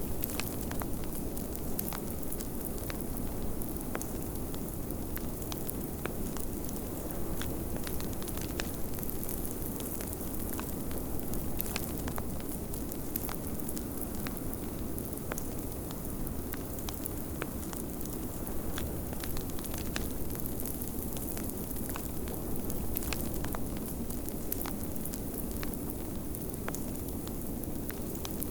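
Wood fire crackling in a fireplace, with irregular sharp pops and snaps over a steady low rush of snowstorm wind.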